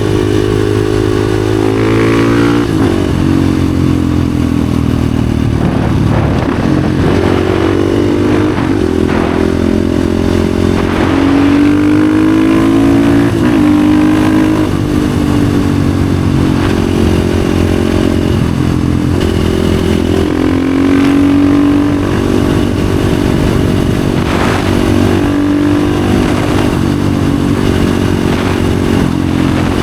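Husqvarna FE 450's single-cylinder four-stroke engine through an FMF exhaust, ridden hard: the revs climb and drop again and again as it accelerates through the gears and backs off between pulls.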